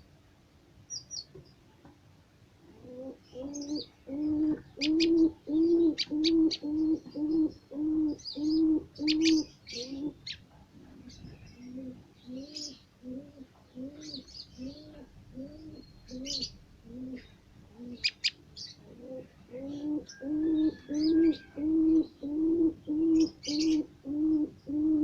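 A low cooing note repeated about twice a second, starting about three seconds in, fading somewhat midway and growing loud again near the end, with short high bird chirps scattered over it.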